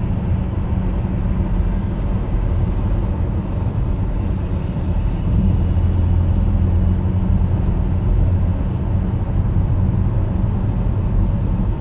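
Steady low road and tyre rumble with wind noise inside the cabin of a 2014 Toyota Highlander at freeway speed, growing a little louder about five seconds in.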